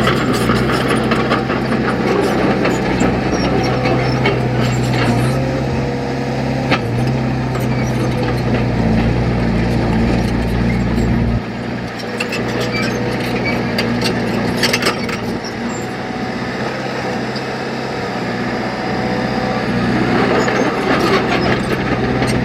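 Heavy earthmoving machine's diesel engine running steadily, its pitch shifting a little about seven seconds in and its deep rumble dropping away about eleven seconds in, with occasional sharp metal clanks.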